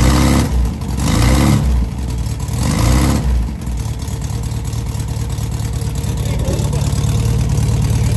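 Rebuilt 1970 Volkswagen Beetle air-cooled flat-four engine revved in about three quick throttle blips, then dropping back to a steady idle for the rest of the time.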